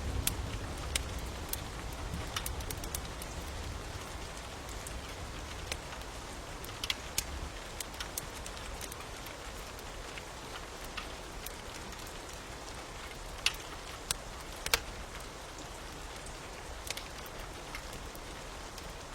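Steady rain falling, with scattered sharp pops and crackles from a wood fire. A low rumble under it dies away over the first several seconds.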